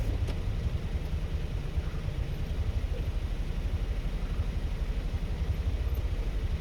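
Tractor engine running steadily with an even, low pulsing.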